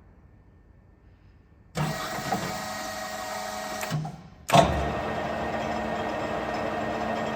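LeBlond Regal 15 lathe's motor and headstock gearing switching on about two seconds in and running with a steady hum and whine. It cuts out briefly past the halfway point, then starts again with a sharp jolt and runs on steadily.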